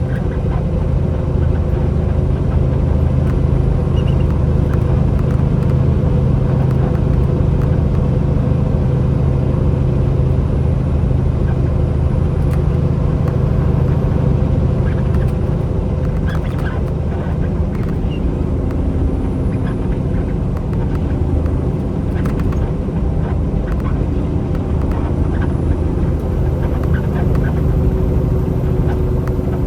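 Truck engine running at a steady drone under road noise, held steady throughout.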